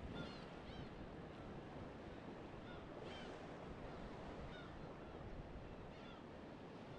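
Steady rush of waves on a shore, with short bird calls repeated on and off over it.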